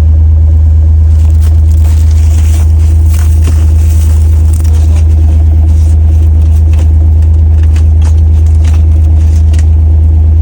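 Off-road vehicle's engine and drivetrain running in low range with a loud, steady low drone, with scattered crackles and scrapes over it from ice-coated branches brushing and breaking against the vehicle.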